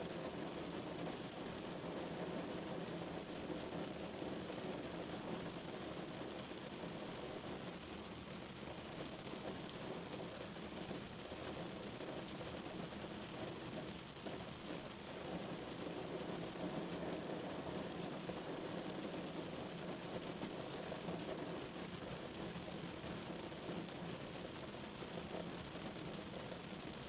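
Rain falling steadily on a car, a dense even patter of drops on the car's body and glass.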